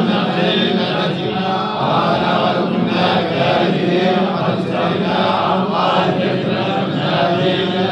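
Quran recitation chanted in a continuous, even male voice.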